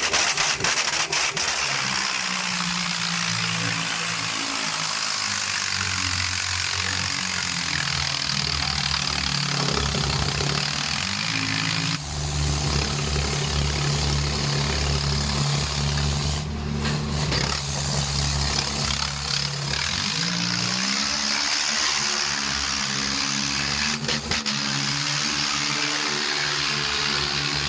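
Tractor diesel engines running steadily, with a hiss over them; the engine note shifts about twelve seconds in and climbs in pitch around twenty seconds.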